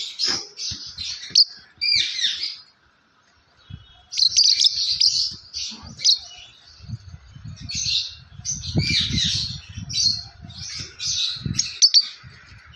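Yellow lovebird chirping in quick runs of short, high calls, pausing for about a second near the three-second mark and then starting again. In the second half, low rapid bumping sounds run under the calls.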